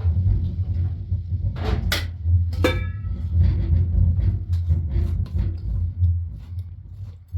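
A steady low rumble, with several sharp knocks and clicks about two seconds in, one of them with a short squeak.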